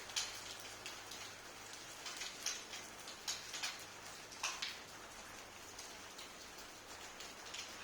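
Steady rain falling, with scattered louder drops tapping sharply on a nearby surface.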